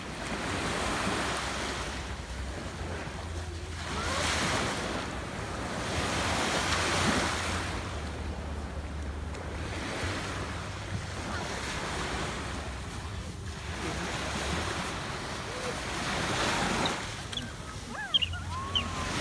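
Sea waves washing onto a beach, the surf swelling and fading every few seconds, with wind rumbling on the microphone. A few faint high calls near the end.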